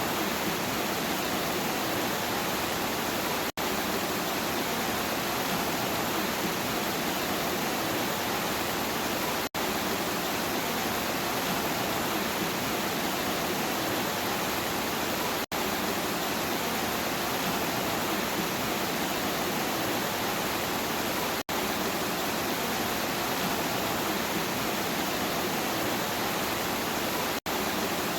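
Steady, even hiss of heavy rain with no thunder. Five times it drops out for a split second, about every six seconds, where a short recording loops.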